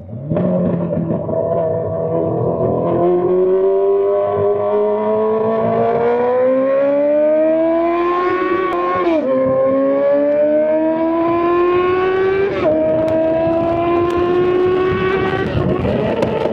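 Honda CBR600's straight-piped inline-four engine accelerating hard through the gears: the revs climb steadily, drop sharply at an upshift about nine seconds in, climb again, and shift up twice more, about three seconds later and near the end.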